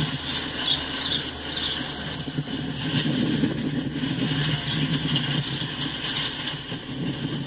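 Freight train of autoracks and boxcars rolling past, its steel wheels running steadily on the rails.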